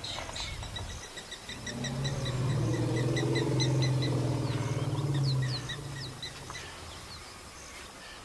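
Birds chirping in rows of short repeated notes, with a long, low, even call from a large animal lasting about three and a half seconds in the middle.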